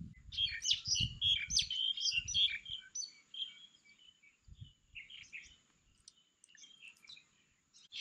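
Small birds chirping: a busy run of short, high chirps for the first few seconds, then scattered calls. There is low rumbling underneath near the start.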